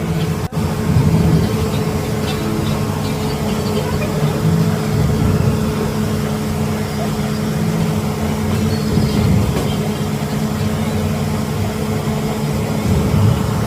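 Steady engine hum of road traffic, with a brief dropout about half a second in.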